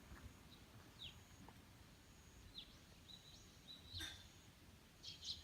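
Faint bird chirps against near silence: short downward-sweeping chirps about a second in and again in the middle, and a brief cluster of calls near the end.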